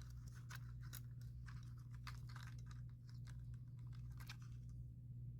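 Quick, irregular small clicks and ticks of metal and plastic as the worn hinge shaft is wiggled out of a DJI Mini 4 Pro drone's front arm, stopping about four and a half seconds in. A steady low hum runs underneath.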